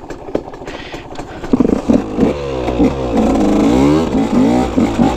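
Dirt bike engine revving: after about a second and a half of rough noise, the engine note climbs and drops again and again as the bike is ridden hard.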